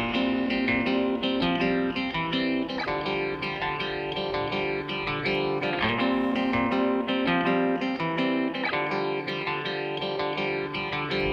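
Background music led by plucked guitar notes, with an effects-processed, electric-guitar sound.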